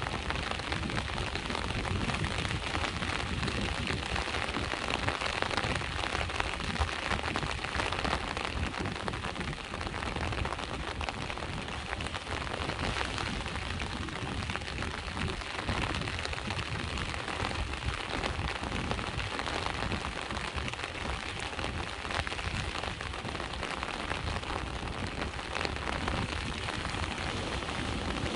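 Steady rain pattering densely on a surface, with a low rumble underneath.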